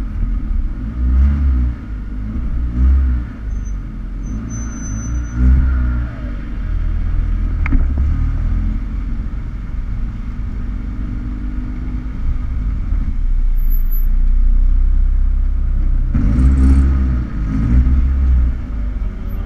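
Car engines idling with a low rumble and short throttle blips that rise and fall, a cluster early on and another as a lowered black Mk3 VW Golf rolls up close. There is one sharp click about halfway through.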